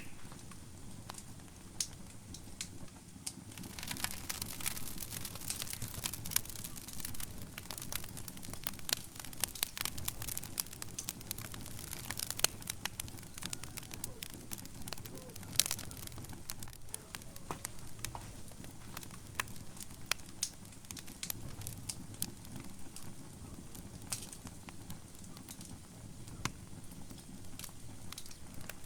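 Wood fire burning in a fireplace: a low steady rumble of flames with irregular sharp crackles and pops from the burning logs, busiest during the first half.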